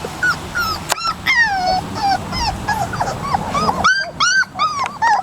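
A litter of 3½-week-old puppies whimpering and squealing: many short, high, overlapping cries that rise and fall in pitch, in quick succession.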